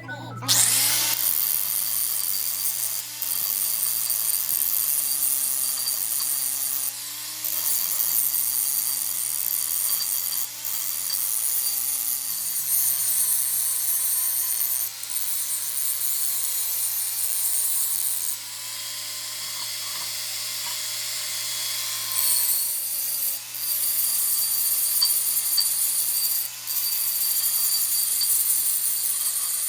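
Power tool working on a metal part. It gives a harsh, steady grinding hiss over a motor tone that wavers slightly under load, easing off briefly several times.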